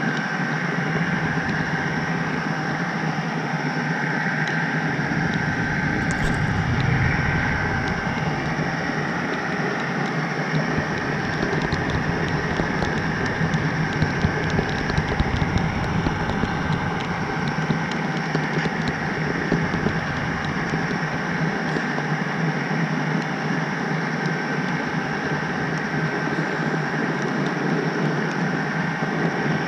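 HO-scale model train running on the track: a steady rolling rumble with a thin steady whine, and light clicks from the wheels over rail joints through the middle stretch.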